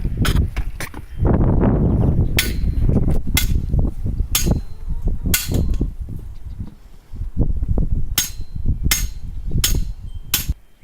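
Hammer blows, about ten sharp strikes roughly one a second with a short pause near the middle, as the gate is nailed together.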